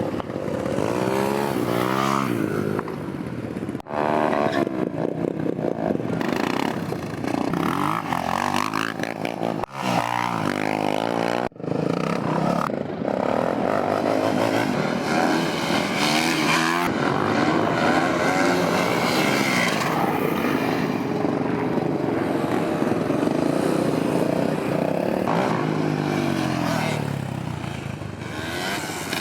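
Motorcycle engines revving up and down and passing by, their pitch rising and falling again and again. There are a few abrupt cuts in the sound.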